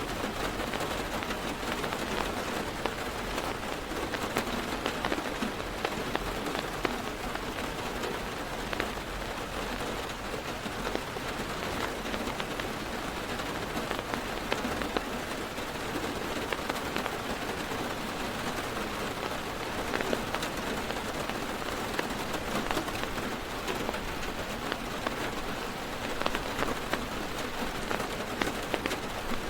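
Heavy rain falling on a car's roof and windows, heard from inside the car: a steady hiss of rain, dense with the ticks of individual drops striking.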